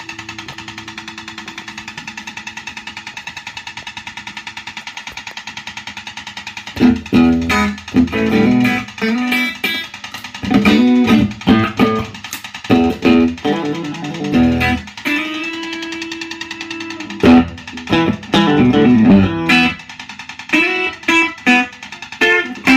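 Fender Deluxe Reverb amplifier giving off a fast, even ticking with a faint hum, a fault noise. About seven seconds in, an electric guitar played through it starts strumming chords, and the ticking is heard again in the pauses near the end.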